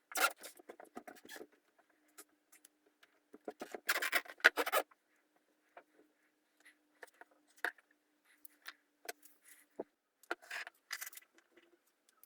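Hard small parts being handled: scattered clicks, rattles and scraping, with louder bursts of scraping at the start, around four seconds in and near the end. A faint steady hum runs under the middle part.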